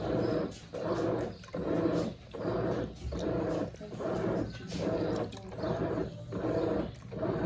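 Brastemp Eggo 1 kg mini washing machine agitating the wash: its motor hums in even pulses, a little more than one a second, with short pauses between strokes.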